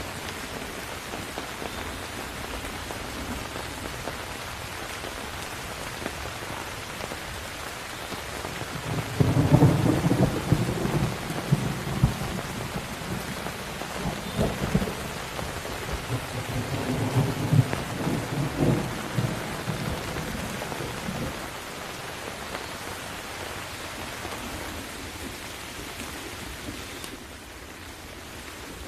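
Steady rain falling, with a long roll of thunder about a third of the way in that swells and fades several times over some ten seconds before the rain goes on alone.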